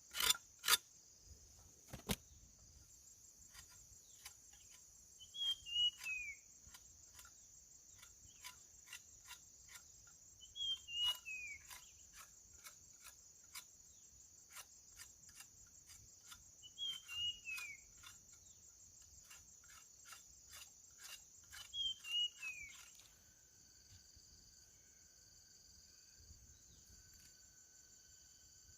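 Insects chirring steadily, with a bird repeating a short falling whistle four times, about six seconds apart. Faint clicks and taps run under it until about two-thirds of the way through.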